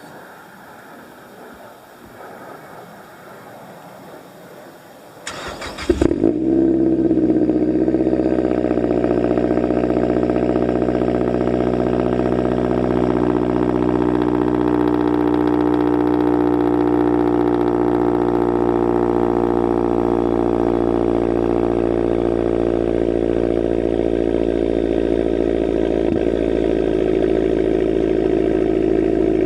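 2011 Mazdaspeed3's turbocharged 2.3-litre four-cylinder cold-started through an ATP long catted downpipe and a non-resonated Ultimate Racing catback: after about five seconds of low background sound, a brief crank, then the engine catches and settles into a loud, steady high cold idle.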